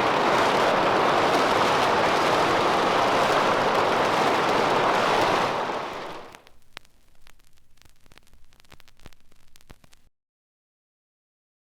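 A loud, steady rushing noise, like heavy rain or static, fades out about six seconds in. Faint scattered crackle of vinyl record surface noise follows, then dead silence between sound-effect tracks near the end.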